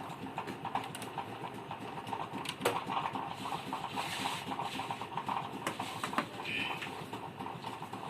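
Irregular light clicks and knocks of hands handling cables and a TV's rear connectors, with a few sharper clicks, over a steady faint background hum.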